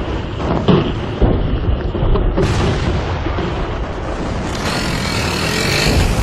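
Artillery barrage of mortars and field and medium guns: a dense, continuous rumble of gunfire, with several sharp reports in the first second or so and shells rushing overhead with a whistling hiss that swells about halfway through.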